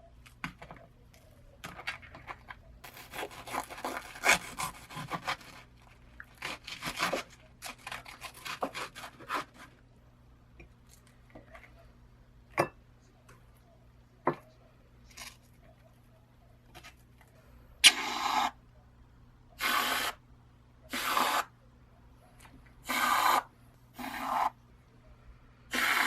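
Scraping and rubbing of something being handled, with two sharp clicks, then about six short rasping strokes a second or so apart near the end.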